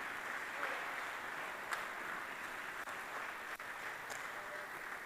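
Congregation applauding, a dense patter of many hands clapping that slowly dies down.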